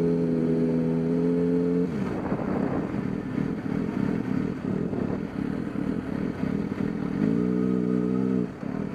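Dirt bike engines running: one revs up and holds a steady pitch until about two seconds in, then a rough rumbling run follows, and an engine holds a steady pitch again for about a second near the end.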